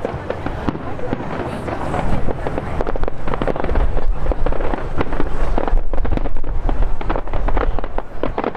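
Fireworks display: many bangs and crackles in quick succession over a low rumble.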